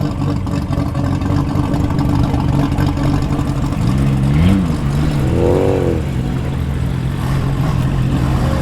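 Car engines running at low speed as cars roll past, with one engine revved up and back down about four seconds in.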